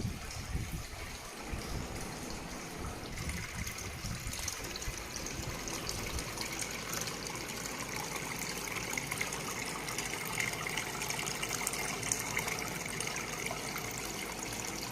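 Water trickling and splashing steadily down a small pump-fed cement waterfall fountain.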